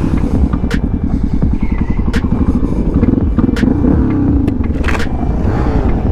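Motorcycle engine running at low revs, its rapid exhaust pulses rising and falling slightly in pitch, with a few sharp clicks over it.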